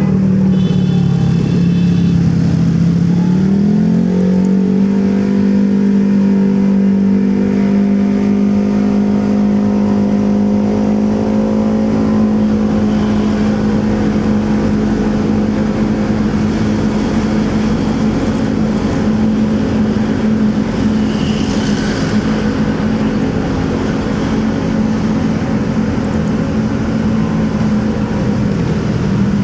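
Motorcycle engine running under way, with road and wind noise. The engine note drops slightly in the first few seconds, climbs back and then holds steady at cruising speed.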